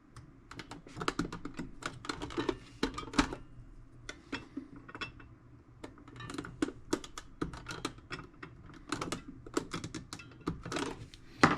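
A thin blade prying and scraping at a toolbox corner: irregular sharp clicks, ticks and short scrapes, with a brief lull about halfway and a busier run of clicks near the end.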